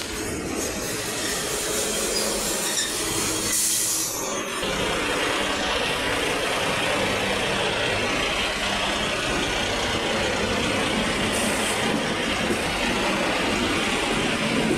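A train running past a station platform: first a diesel locomotive with a brief high hiss about four seconds in, then an electric multiple unit rolling past close by with a steady rumble of wheels on rails.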